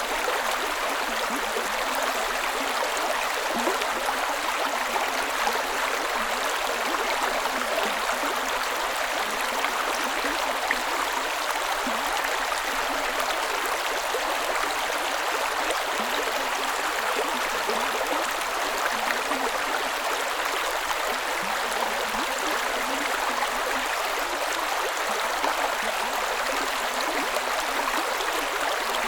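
A creek's water running over stones, a steady gurgling rush.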